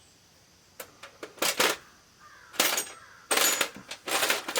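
Small hard objects clicking and clattering as they are picked up and moved around on a workbench while searching for a tool. Quiet at first, then sharp clicks about a second in, with a longer burst of rattling near the end.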